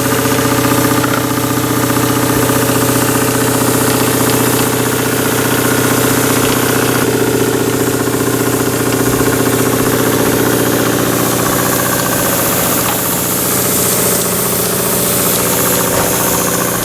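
Jensen model steam engine with a slide valve running steadily on live steam, a fast, even exhaust beat over a constant mechanical whirr.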